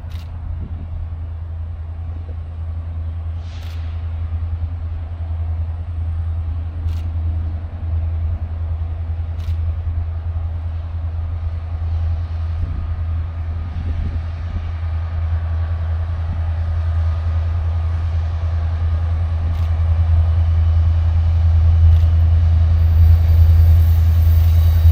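Diesel locomotive engines rumbling low and steady, growing louder as the train draws nearer, with a few faint clicks.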